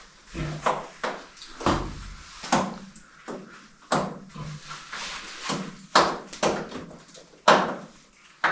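Short scrapes and knocks of a person crawling and squeezing through a tight cave passage, body and gear rubbing and bumping on rock and mud, about one or two a second.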